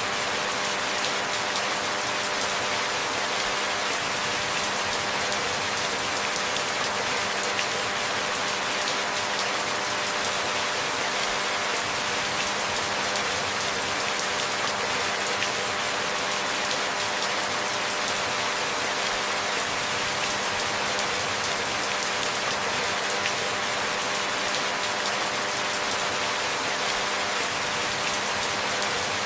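Steady rain falling: an even hiss that does not change, with no distinct splashes or thunder.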